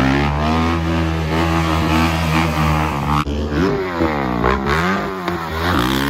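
Dirt bike engine revving, its pitch rising and falling several times as the throttle is worked.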